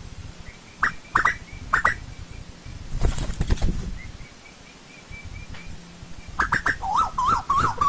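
Asian koel calling: a few sharp rising whistled notes, then near the end a quick run of wavy rising-and-falling notes, about four a second. A short noisy rustle comes about three seconds in, and fainter repeated high notes sound underneath.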